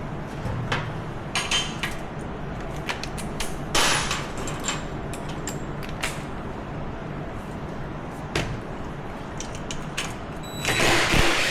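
Parts being handled during ATV disassembly: scattered clicks and knocks of small hard pieces being picked up and set down, with a longer, louder clatter near the end.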